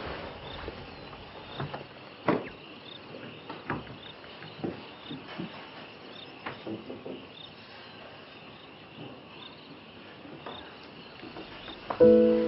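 Insects chirping about once a second in a quiet outdoor ambience, with scattered sharp snaps and clicks. Near the end, a loud sustained musical chord comes in.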